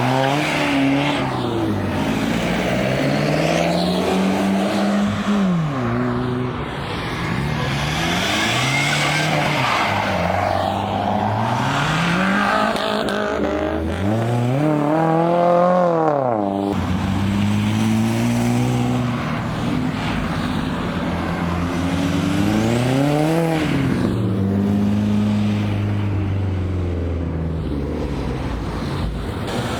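Car engines revving hard and accelerating, the pitch climbing and dropping again and again as cars pull away, with the largest rev about halfway through.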